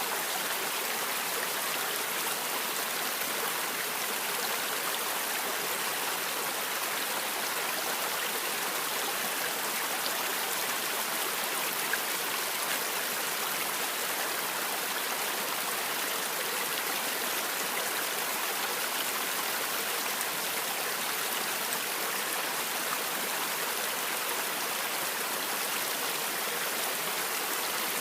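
Creek water rushing over rocks, a steady, even sound.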